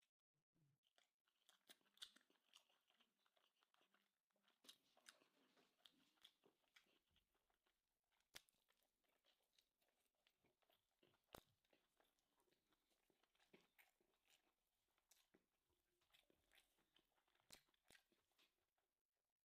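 Very faint sounds of a person chewing and eating, with scattered small clicks and crunches.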